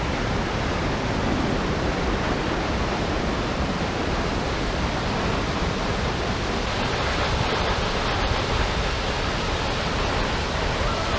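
Steady rushing of a large waterfall, the Düden falls, an even wash of falling water heard up close.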